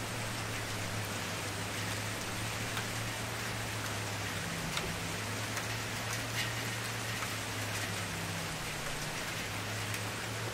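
Wood campfire crackling: a steady hiss of burning with many small sharp pops and snaps scattered through it, over a low steady hum.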